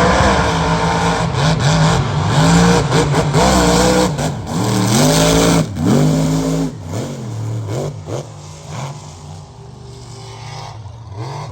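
Mud-racing mega truck engines revving hard, the pitch climbing and dropping over and over for about six seconds. The engine then eases off and runs quieter, with a few shorter revs near the end.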